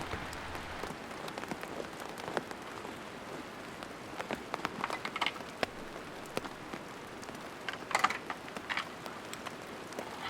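Rain falling steadily, with scattered louder drops ticking on a surface, thickest about four to five seconds in and again around eight seconds.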